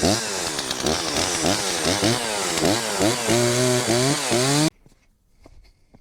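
Stihl 036 Pro two-stroke chainsaw revved in quick throttle blips, its pitch rising and falling about twice a second, then held steady for a moment before cutting off abruptly near the end. A few faint clicks follow.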